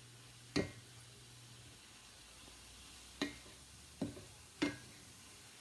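Pieces of pork loin sizzling faintly in a pan as they are turned, with four sharp clicks of a utensil against the pan.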